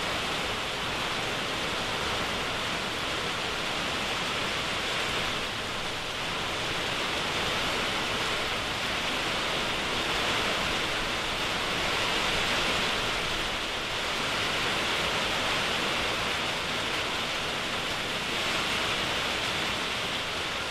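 Heavy hurricane rain pouring down in high winds: a dense, steady hiss that swells and eases slightly.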